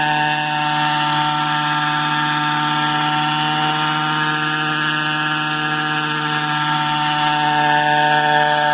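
Engine-driven variable-pitch quadcopter running at a steady speed: a loud, even engine drone with a whine and no change in pitch, as in a hover.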